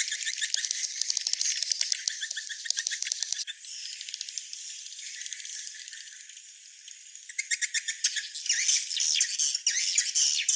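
Many swiftlets twittering and chirping, with rapid dry clicks among the calls. The chorus thins out after about three and a half seconds and swells again after about seven and a half.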